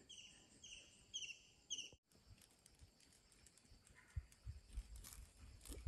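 Near silence, with a small bird's short falling chirp repeated about twice a second for the first two seconds. After a break there are a few faint low knocks.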